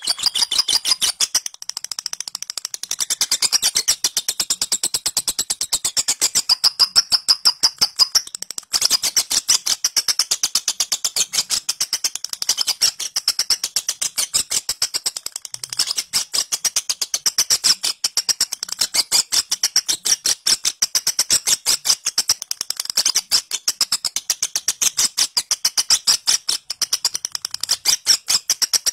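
Lovebird giving a long 'ngekek' cackle in the rapid 'ngetik' style: a fast, unbroken run of short, shrill chattering notes, many to the second, with a brief pause about nine seconds in.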